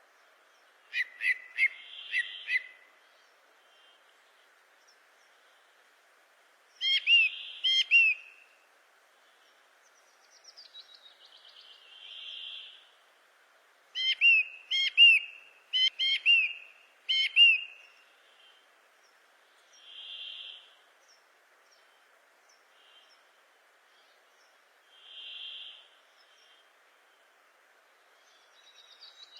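A bird calling: groups of three to five sharp, sweeping chirps every few seconds, alternating with softer, blurred single notes.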